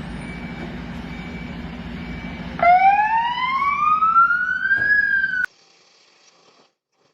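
A vehicle engine hums under a short high beep repeating about once a second. Then a loud siren wail rises steadily in pitch for about two and a half seconds, falls slightly, and cuts off abruptly.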